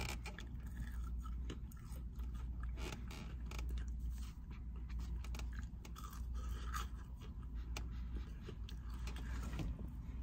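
A person chewing crispy fried breaded chicken strips (Burger King chicken fries), fresh from the fryer, with soft crunches and small mouth clicks all through.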